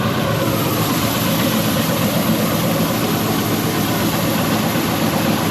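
Heavy farm machine's engine running at a steady speed, with a dense, continuous mechanical hum.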